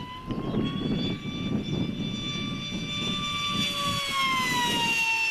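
RC park jet's propeller whine in flight, a steady pitched drone that rises a little about a second in and drops again near the end as the plane passes or throttles back. Wind buffets the microphone underneath.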